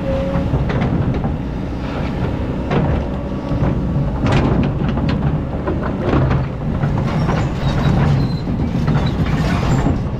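Excavator's diesel engine running steadily, with irregular metallic clanks and scraping as the bucket digs into hard-packed sand.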